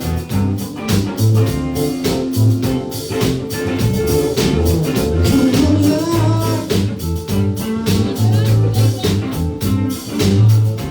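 A band playing a soul-rock cover: drums keeping a steady beat under a bass line and guitar, with some singing.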